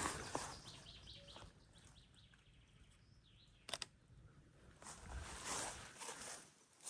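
Quiet woodland ambience with a few faint bird chirps, and a single camera shutter click about four seconds in. Soft rustling follows near the end.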